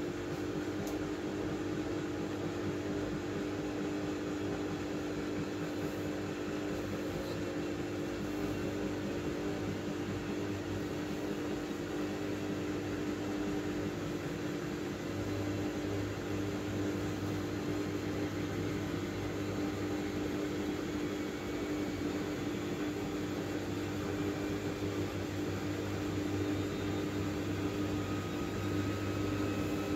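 Miele W433S washing machine running with a steady motor hum, and a faint whine that rises slightly near the end.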